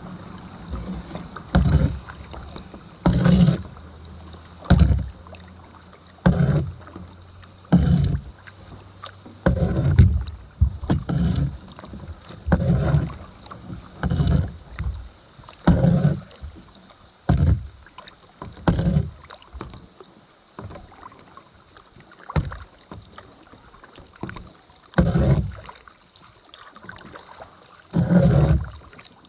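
Kayak paddle strokes pulling through the water, a short splashing swish about every second and a half.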